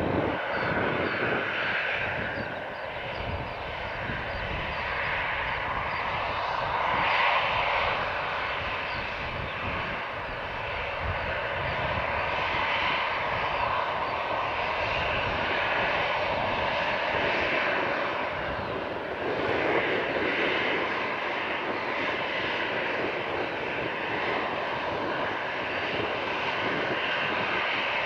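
Airliner engines running at an airport, a steady noise with a faint whine that swells a little a few times.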